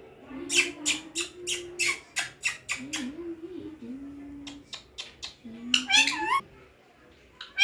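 Pet parakeet screeching: a rapid run of harsh squawks, about three or four a second, then a few short clicks and a warbling call that rises and falls near the end.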